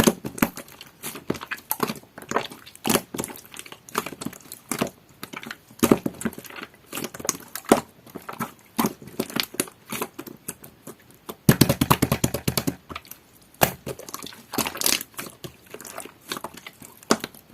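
Clear slime squished and pressed by hand, giving irregular wet clicks and pops, with a dense run of rapid crackling pops about two-thirds of the way through.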